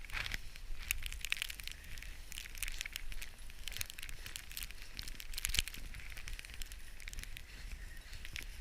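Irregular crunching and crackling of footsteps through deep snow, with a low rumble underneath.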